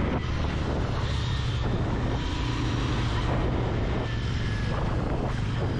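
Royal Enfield Continental GT 650's parallel-twin engine running steadily under a rider on the move, with wind and road rush over the microphone.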